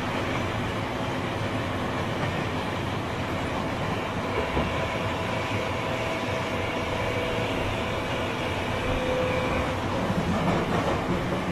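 Tobu 9000 series chopper-control EMU (car MoHa 9206) running between stations in the subway, heard from on board. Steady running noise carries faint, even tones from the traction equipment: the unusual motor sound this car is known for, unlike the usual chopper sound.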